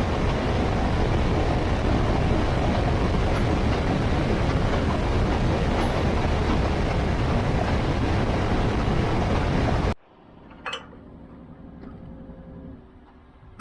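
Steady wind and road noise of a Honda Africa Twin motorcycle riding at speed, a loud even rush with no distinct engine note. About ten seconds in it cuts off abruptly to a much quieter scene with one sharp click and a faint low hum.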